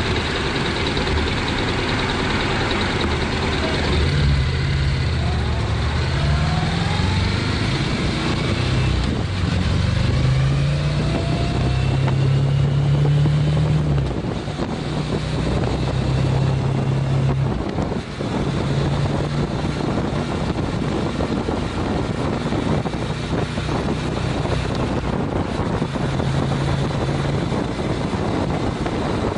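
Honda CTX700N's 670 cc parallel-twin engine idling at a stop, then pulling away and accelerating through several gears, its pitch climbing in steps over about ten seconds. It then settles into a steady cruise near 50 mph, with wind and road noise on the handlebar-mounted microphone.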